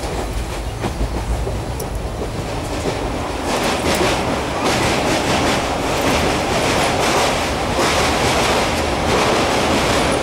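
Rolling noise of a moving passenger train heard from inside a carriage: wheels running on the rails with intermittent clicks over rail joints, growing louder about three and a half seconds in.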